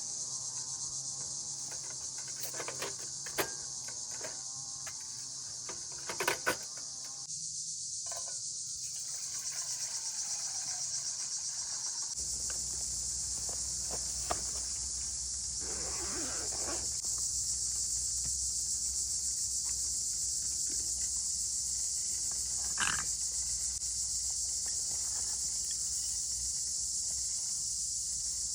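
Steady high-pitched chorus of crickets chirping, with a few soft clicks and knocks over it.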